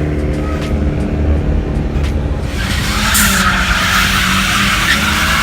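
A car engine running hard, with tires breaking loose and squealing from about two and a half seconds in, as in a burnout or sliding launch.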